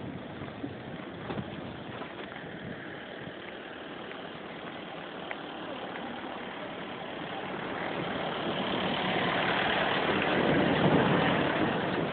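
Car on the move: engine and road noise as a steady rush, swelling louder over the second half.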